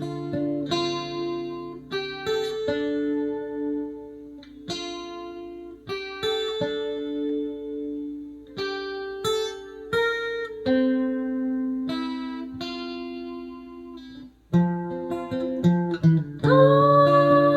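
Acoustic guitar played as an instrumental passage in the song, single plucked notes and chords ringing and fading one after another. Near the end, a voice comes in singing a held note.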